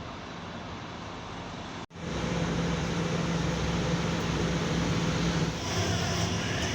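Scania Enviro 300 single-deck bus running, a steady engine drone; about two seconds in the sound cuts abruptly to a louder stretch with a stronger low hum, and a high hiss joins near the end.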